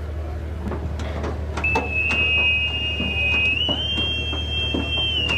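A high, steady whistle-like tone that starts about a second and a half in, steps up in pitch midway, then drops back near the end, over a low steady hum with scattered knocks.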